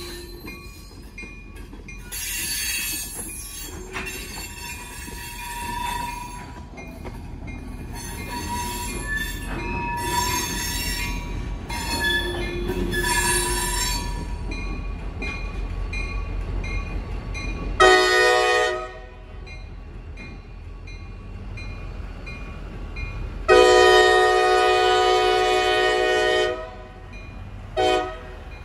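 Freight train rolling slowly past, steel wheels squealing on the rails in repeated high-pitched bursts over a low rumble. In the second half the locomotive's air horn sounds a short blast, then a long blast of about three seconds, then another short blast near the end.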